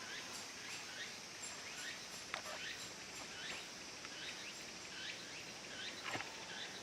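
Higurashi (evening cicadas) calling in a steady run of repeated sweeping notes, about two a second. There are a couple of faint knocks, about two and a half and six seconds in.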